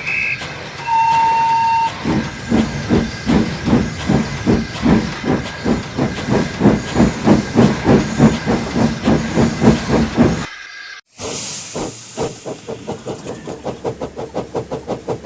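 Steam locomotive: a short whistle blast about a second in, then hissing steam and regular exhaust chuffs about twice a second. After an abrupt cut, a second stretch of faster, lighter chuffing.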